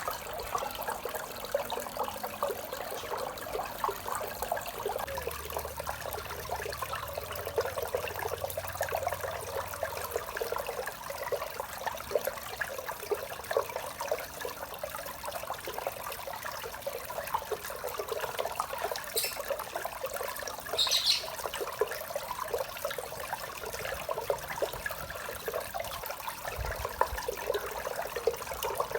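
Small waterfall splashing steadily into a koi pond, a dense, continuous trickle and patter of falling water. Two brief high-pitched sounds come through about two-thirds of the way in.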